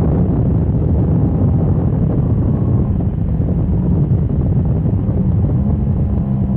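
Motorcycle at speed on a race track: heavy wind rush on the microphone over a steady engine note.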